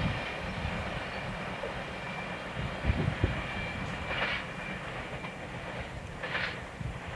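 Freight train of tank wagons rolling away along the track: a steady low rumble of steel wheels on rail, with two sharp clanks from the wheels crossing rail joints about three seconds in.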